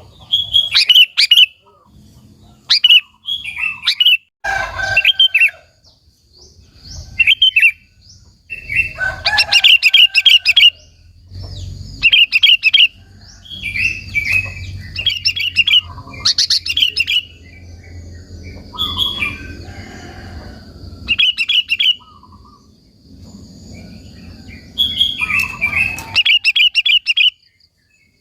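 Sooty-headed bulbul singing: loud phrases of quick chirping notes, repeated over and over with short pauses between them.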